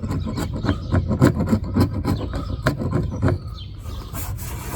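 Hand scraper scraping old, gooey window adhesive dry from around a car's quarter-window opening, several quick strokes a second, easing off about three and a half seconds in.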